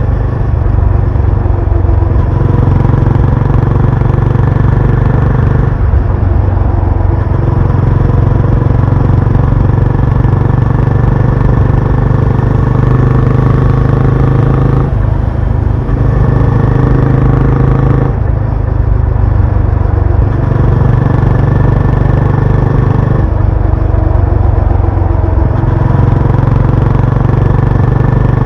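Benelli Imperiale 400's single-cylinder engine and exhaust running on the road. Its note changes every few seconds as the throttle opens and eases off.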